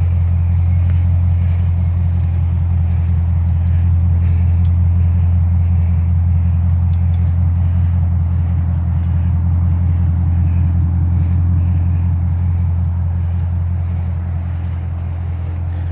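Lexus RC F's 5.0-litre V8 idling steadily through an aftermarket cat-back exhaust, a deep, even rumble with no revs. It grows slightly fainter near the end.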